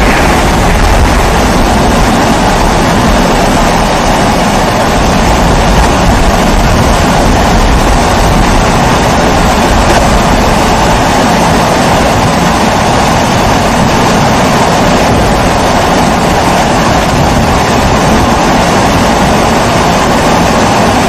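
Pressurised kerosene stove (primus-type babour) burning with a steady, loud rushing hiss.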